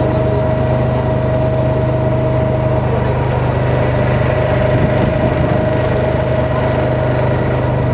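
Boat motor running steadily and really loud, a constant low engine drone with a steady higher tone over it.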